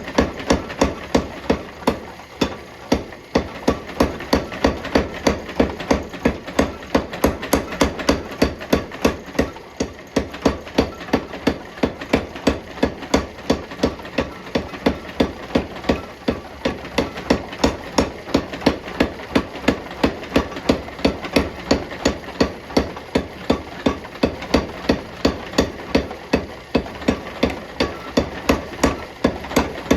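Hammer blows forging hot steel bar, struck in a steady rhythm of about three a second over a constant background hum.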